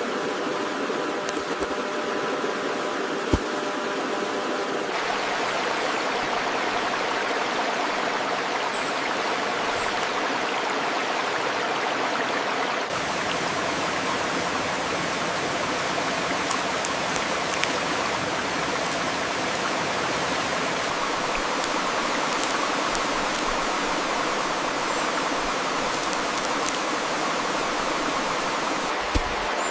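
Steady rushing noise like running water in a stream, with a few faint high chirps and two sharp knocks, one a few seconds in and one near the end.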